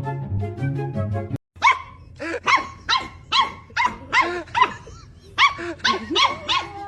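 Background music that cuts off about a second and a half in, then a dog barking repeatedly, about a dozen short barks in quick succession.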